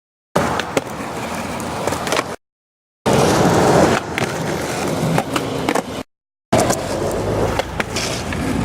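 Skateboard wheels rolling on pavement with sharp clacks and knocks from tricks and landings. It comes in short stretches broken by three brief dropouts to silence.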